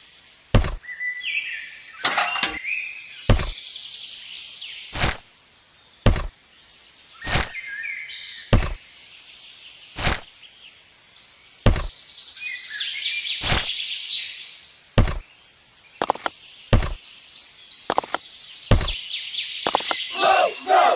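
Sharp knocks repeating about once every second or so, with birds chirping faintly in the background.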